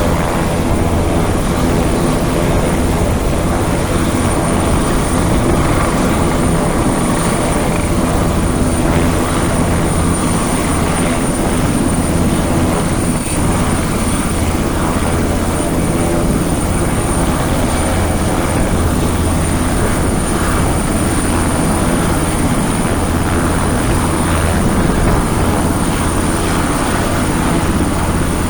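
Leonardo AW139 twin-turbine helicopter arriving, running loud and steady: a low, even rotor beat with a constant high whine over it.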